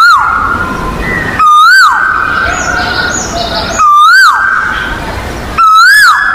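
A cuckoo calling four times, about two seconds apart. Each call is a loud, rich note that holds, swoops up, then drops sharply in pitch.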